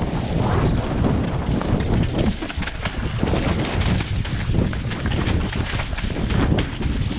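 Wind buffeting the microphone, with many short knocks and rattles scattered throughout.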